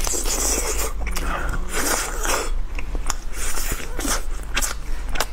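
Close-miked mouth sounds of a person biting and chewing chicken meat off the bone, with irregular sharp wet clicks that come thicker in the second half.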